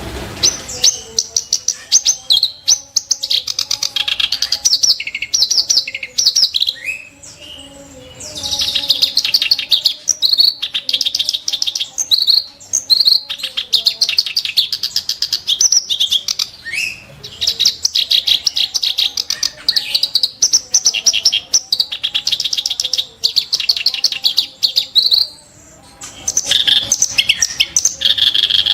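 Reed warbler (kerak basi) singing a fast, harsh chattering song of rapid-fire sharp notes, in long runs broken by a few short pauses.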